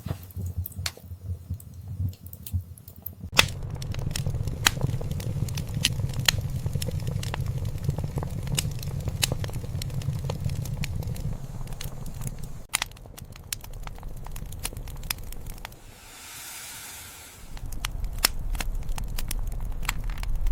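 Wood fire in a fireplace crackling, with sharp pops throughout over a low rumble of burning that comes and goes. A brief soft hiss about three quarters of the way through.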